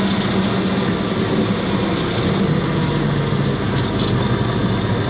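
Cessna 172's piston engine running at low power, a steady drone whose pitch drops slightly about halfway through.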